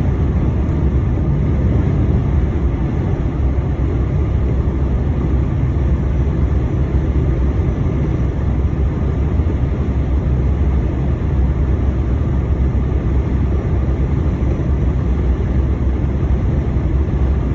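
Steady low drone of a lorry's engine and road noise heard from inside the cab while driving on the motorway.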